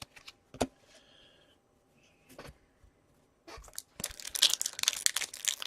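A few light clicks of cards being handled, then, about three and a half seconds in, the crinkling and tearing of a foil Upper Deck Series 1 hockey card pack wrapper being ripped open.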